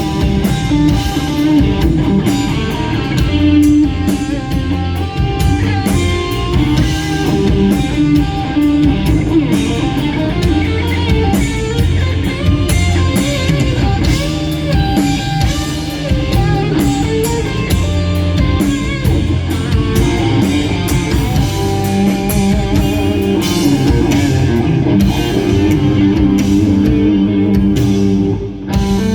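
Live instrumental rock ballad: an electric guitar carries the melody over a drum kit, played loud and unbroken.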